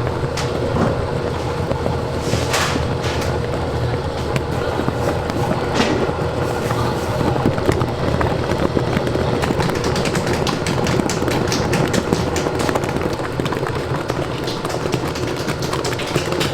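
Bakery kitchen machinery running: a steady low rumble and hum with a fast, continuous clatter of small clicks and knocks, and a couple of short hissing sweeps in the first half.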